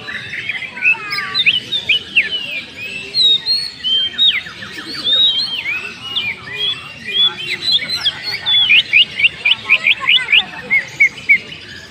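Cucak ijo (green leafbird) singing a dense, varied song of chirps and whistled slurs, with quick rattling runs of notes about 4 and 9 seconds in. This is a champion-style song of the kind used to provoke other cucak ijo into singing.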